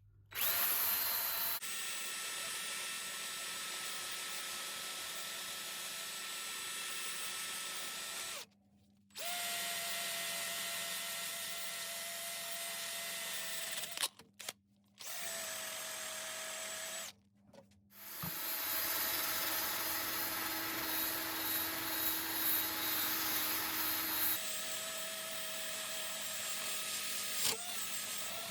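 Handheld electric power tool running with a steady motor whine, switched off and straight back on three times, about 8, 14 and 17 seconds in. From about 18 seconds in it runs louder and more unevenly.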